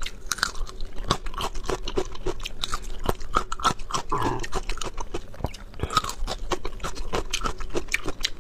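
Close-miked chewing of crunchy food: a dense, irregular run of crisp crunches and wet mouth clicks, with a fuller mouth sound about halfway through.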